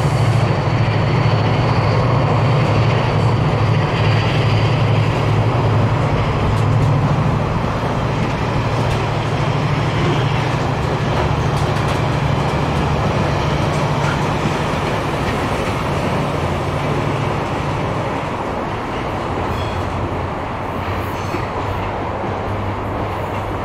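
A train passing on the line: a steady low hum over broad wheel-and-rail noise, with the low hum fading about three quarters of the way through.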